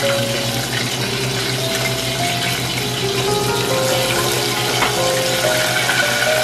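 Hot oil sizzling steadily around a coated piece of chicken shallow-frying in a stainless steel pot. Light background music plays over it.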